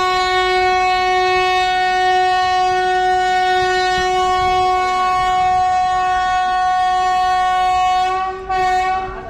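Train locomotive horn blowing one long, steady blast that stops about eight seconds in, followed by a short second blast.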